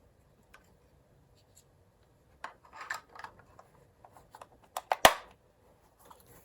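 Hands handling a plastic cordless phone handset and its packing: scattered light rustles and small clicks, with one sharp click about five seconds in.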